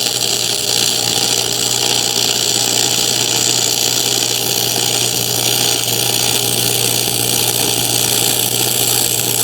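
Electric arc welding on steel square tubing: a steady, loud crackling sizzle of the arc with a constant electrical hum under it, held as one continuous bead.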